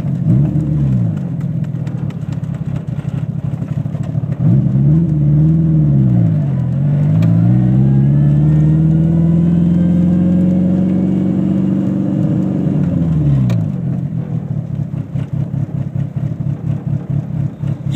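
Turbocharged 2.0-litre four-cylinder engine of an Eagle Talon TSI fitted with a big turbo and running low boost. It revs up and down, then climbs and holds high revs for several seconds before dropping back to a lower, uneven running about three-quarters of the way through.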